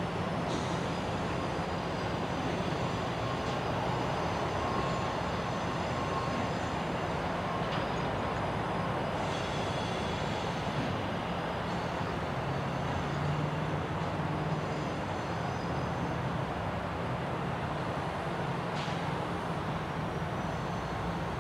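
Freight train rolling past with a steady rumble of wheels on rail and a low hum. Brief high-pitched squeals come and go a few times.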